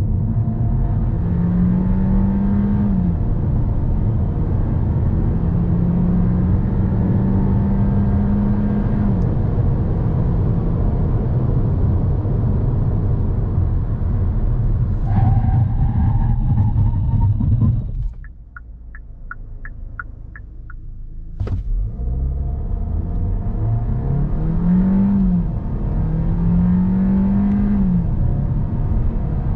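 Kia Seltos small SUV accelerating hard, its four-cylinder engine rising in pitch and dropping back at each upshift. About eighteen seconds in it eases off and goes quieter, with a run of evenly spaced ticks, then a click, and it pulls up through the gears again.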